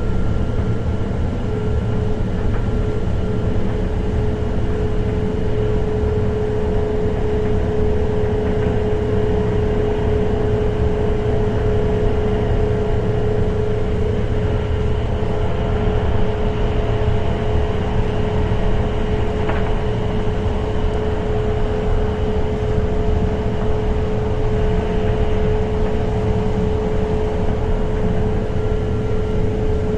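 German ICE high-speed train running at speed, heard from on board: a steady low rumble with a constant whine held at one pitch.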